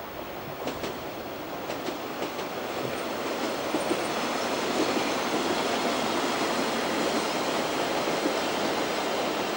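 Diesel commuter train passing close by, its running noise growing steadily louder as it draws near, with sharp clicks of the wheels over rail joints in the first few seconds.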